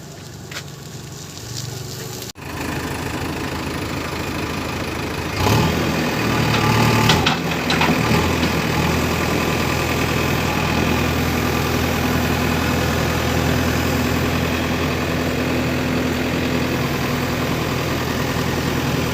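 Vehicle engine running steadily, louder from about five seconds in, with a few short knocks just after.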